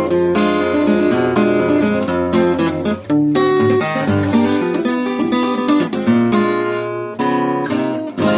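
Instrumental passage of a song: acoustic guitar strumming chords over steady bass notes, with a brief dip about three seconds in, ending on a final chord near the end.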